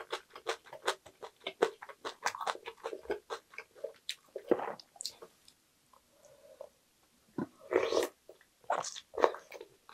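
Close-up chewing of crunchy young-radish (yeolmu) kimchi bibimbap, with rapid crisp crunches for the first few seconds. It quietens about halfway, then a louder bite of a fresh spoonful and more chewing come near the end.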